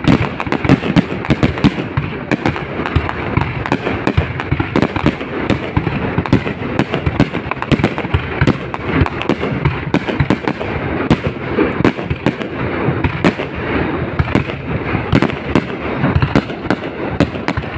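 A fireworks display going off: a continuous run of bangs and crackles, several each second, overlapping without a break.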